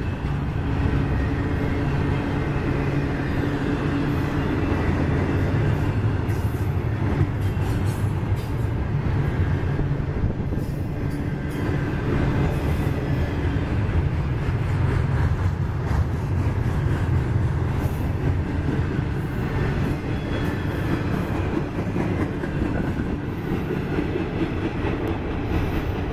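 Double-stack container cars of a freight train rolling past, a steady rumble of steel wheels on rail with scattered clicks.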